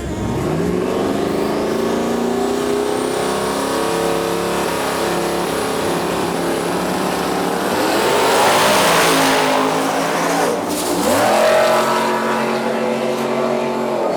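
Race car engine under hard acceleration, its pitch climbing steadily, louder around eight to ten seconds in, then dropping briefly just before eleven seconds and climbing again.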